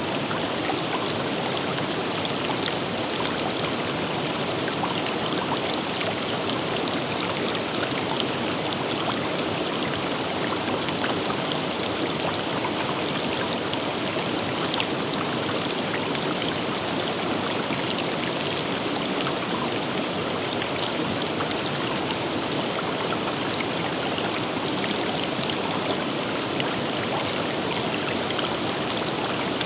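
Forest river flowing steadily, an even rushing of water with small splashes and trickles.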